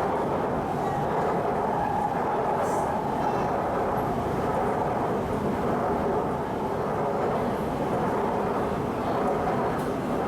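Shanghai Metro Line 11 train running at speed between stations: a steady rumble of wheels and running gear that holds an even level throughout.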